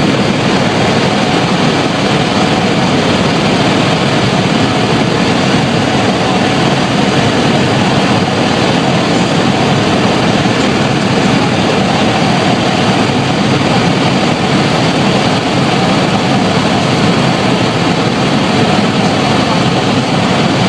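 Helicopter in flight, its engine and rotor making a loud, steady noise that does not change.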